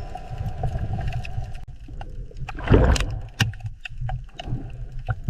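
Water sloshing and splashing over a rough low rumble, with one louder swoosh about three seconds in.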